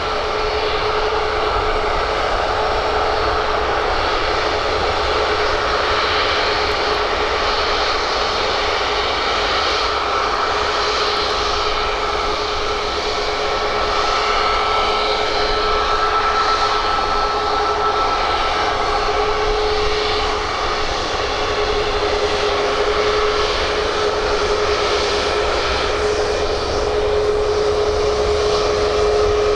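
Airbus A320's CFM56 turbofan engines running with a steady whine over a broad jet rush. Two held tones sit in the sound, a lower hum and a higher whine, rising slightly in level near the end.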